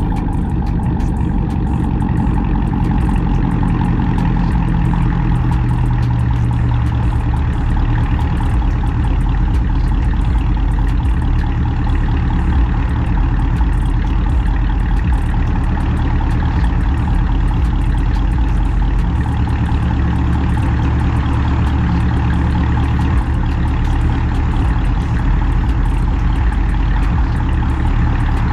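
Cammed, catless, straight-piped Chrysler 300C HEMI V8 exhaust running steadily at a constant engine speed, loud and without revving.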